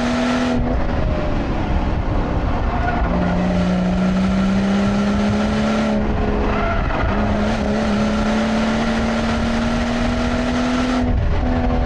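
BMW engine heard from inside the cabin, pulling hard on track with its note slowly climbing in pitch. It eases off briefly about half a second in, again around six seconds and near the end, then pulls again. Steady road and tyre noise runs underneath.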